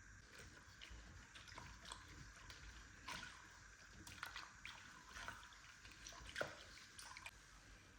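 Near silence: faint room tone with scattered small clicks and taps.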